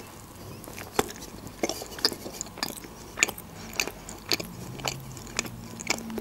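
Close-miked chewing of a bite of çiğ köfte wrapped in lavash: soft wet mouth smacks and sharp little clicks at irregular intervals.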